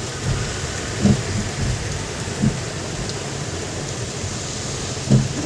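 Heavy rain falling in a steady hiss, with three short low thumps at about one, two and a half and five seconds in.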